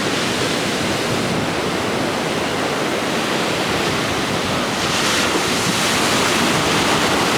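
Ocean surf washing on the beach, heard as a steady rushing noise, with wind buffeting the microphone.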